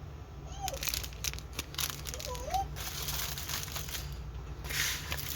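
Plastic packaging of a diamond painting kit crinkling as it is handled, with scattered sharp crackles and clicks.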